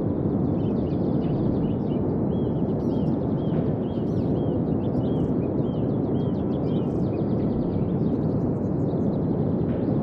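A steady rushing noise like outdoor surf or wind, with a small bird chirping over it. The bird's short, repeated chirps come about twice a second and are clearer from about two seconds in.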